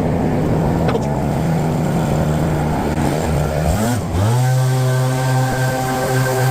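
Small engine of a garden power tool running steadily. About four seconds in its pitch dips and climbs back, then holds even.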